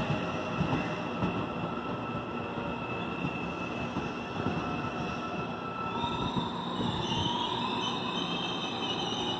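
CPTM electric commuter train pulling out along the platform, wheels rumbling over the rails with a steady whine. About six seconds in, a second whine starts and rises slowly in pitch.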